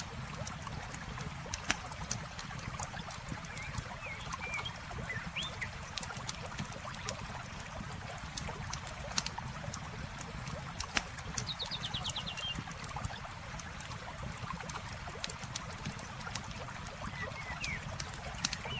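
Campfire crackling with scattered sharp pops over a steady trickle of running water. A few short bird chirps come through, with a quick trill about halfway.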